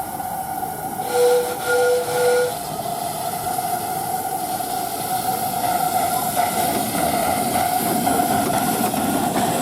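A train sounding three short toots on its whistle, about a second in, over a steady hiss and a steady hum.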